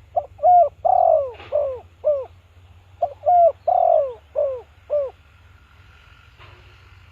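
Spotted dove cooing: two phrases of about six short coos each, every coo falling in pitch, with a pause of under a second between the phrases.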